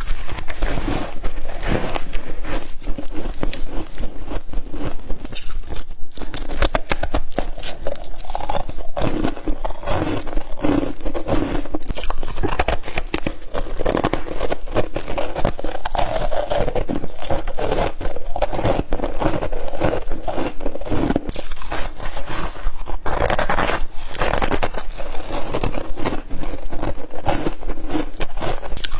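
Close-up crunching and chewing of humidifier frost: dense, continuous crackling bites of soft, powdery ice.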